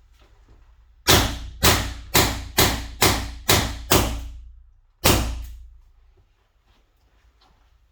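First Strike Compact (FSC) air-powered launcher being rapid-fired: seven sharp shots at about two a second, then an eighth after a short pause, emptying the magazine through a chronograph.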